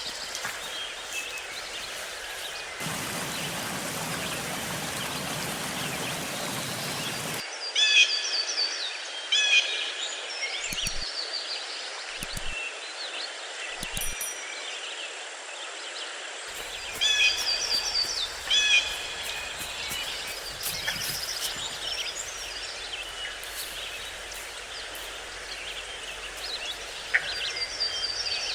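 Wild songbirds singing, short repeated chirping phrases again and again over steady outdoor background noise. From about three seconds in, a steady rushing noise covers them for a few seconds, and a few sharp clicks come in the middle.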